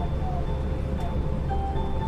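Yui Rail monorail car running, a steady low rumble, with short clear tones at changing pitches sounding over it like a brief tune.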